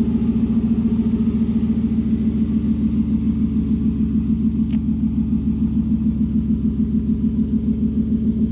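Whipple-supercharged 5.0 V8 of a 2022 Ford F-150 idling warm through a cat-deleted custom exhaust with a straight-through Magnaflow muffler, heard from beside the truck. A steady, evenly pulsing low rumble that sounds mean.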